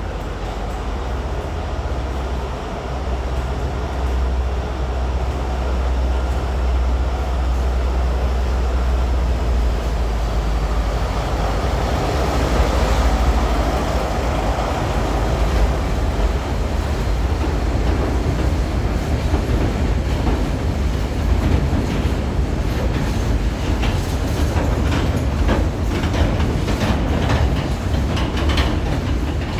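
Diesel-hauled freight train passing. A low engine drone fills the first half, then the wheels keep clicking over the rail joints as the wagons roll by.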